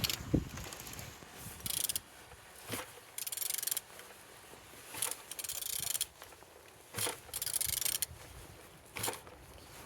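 A removed car engine being turned over by hand with a ratchet wrench on the crankshaft. It goes in repeated strokes about every two seconds, each a click followed by a short rasping ratchet run. The engine turns freely, a sign that it is not seized.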